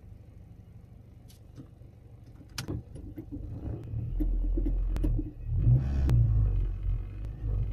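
Honda Civic EP3's engine heard from inside the cabin with the car standing still: a quiet low idle with a few sharp clicks, then a much louder, uneven low rumble from about halfway in.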